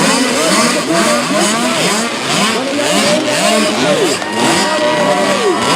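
A pack of 65cc two-stroke motocross bikes racing, their engines revving in many overlapping rising whines that climb, drop and climb again as the riders work through the gears.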